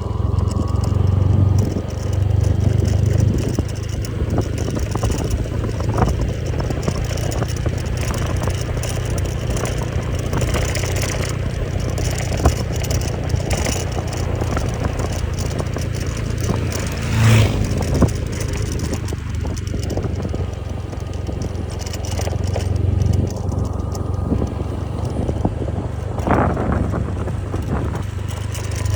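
Steady low rumble of a vehicle under way, with scattered clatter and knocks.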